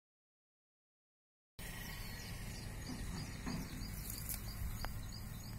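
Total silence for about the first second and a half, then a small bird chirping over and over, about three short notes a second, over steady outdoor background noise, with a single sharp click near the end.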